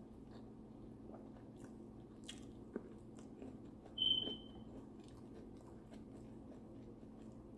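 Close-up eating sounds: chewing and small wet mouth clicks while eating fried tilapia, over a low steady hum. A short high squeak about four seconds in is the loudest sound.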